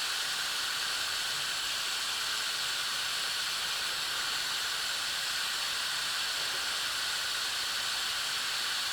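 Hot-air rework gun blowing steadily, a constant even hiss of airflow, as it heats a heat-shrink solder connector until the solder ring melts.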